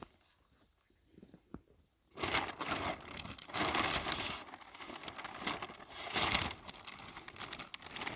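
Crinkling and rustling, starting about two seconds in and going on in irregular swells, as of something like wrapping being crumpled or handled.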